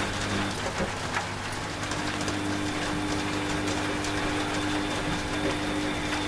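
Washing machine running with a steady motor hum, mixed with rain pattering in many small ticks. A higher tone in the hum drops out briefly near the start and comes back after about two seconds.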